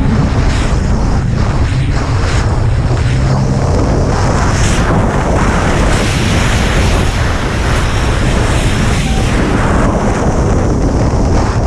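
Racing jet ski running at speed, its engine and pump mixed with water spray and wind buffeting the microphone, with irregular surges.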